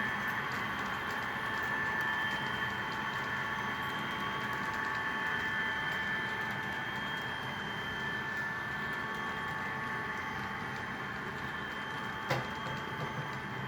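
Two ScaleTrains SD40-2 model diesel locomotives running together on track during a run-by: a steady mechanical hum with high, even whining tones. A single sharp click comes about twelve seconds in.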